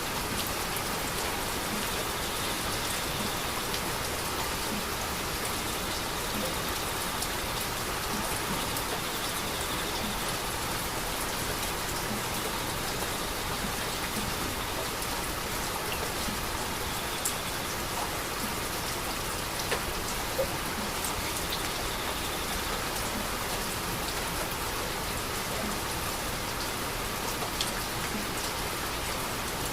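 Loud, steady rain falling, with a few sharper drop hits standing out now and then.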